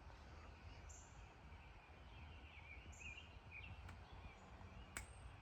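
Faint outdoor ambience: small birds chirping now and then over a low steady rumble, with one sharp click about five seconds in.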